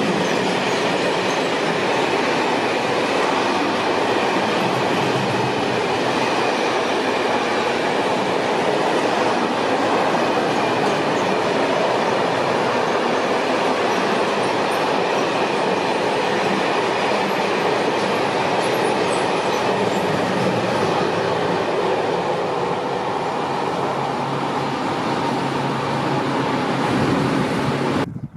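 Freight train of covered, high-sided wagons passing at speed, a loud, steady rush and rumble of wheels on rail under an enclosed station roof. The sound cuts off abruptly near the end.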